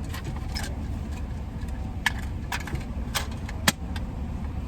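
Steady low rumble of an idling car heard from inside the cabin. Over it come about five sharp clicks and rattles of small objects being handled, the loudest a little before four seconds in.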